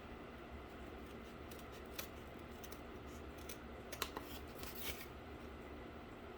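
A few faint, scattered clicks and a short rustle from handling cardboard and tools, over a low steady hum.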